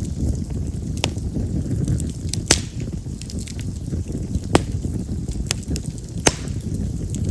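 Wild cherry (yamazakura) firewood burning in an open fire: a low steady rumble of flame with sharp crackles and pops, the loudest about one, two and a half, four and a half and six seconds in.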